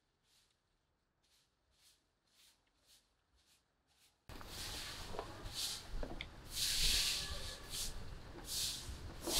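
Close, faint chewing, about two chews a second. About four seconds in the sound jumps louder to a noisy background with sharper, hissy mouth noises from eating.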